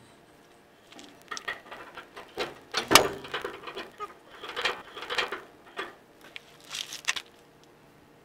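Irregular clatter of clicks, knocks and scrapes from hand tools and truck parts being handled during leaf spring work. It starts about a second in and stops just after seven seconds.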